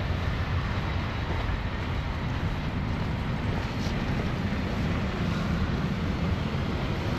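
Steady rush of strong snowstorm wind with wind noise on the microphone, heaviest in a low rumble and even throughout.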